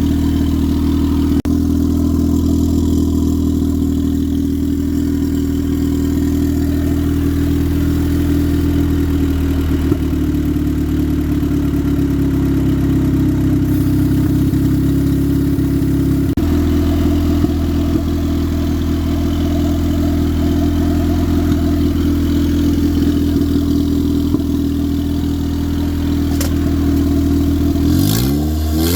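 Turbocharged Honda Civic engine idling steadily, then starting to rev up in the last second.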